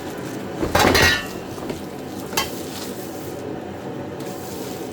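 Metal welding-cart parts being handled, with a loud clatter about a second in and a single sharp click a little later, over a steady background hum.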